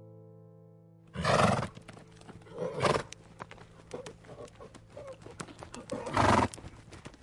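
A musical note fades out, then a horse calls in three loud bursts: about a second in, near three seconds and near six seconds, with light clicks between them.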